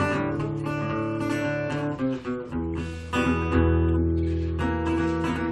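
Acoustic guitar playing the song's instrumental intro riff, strummed chords ringing with picked notes.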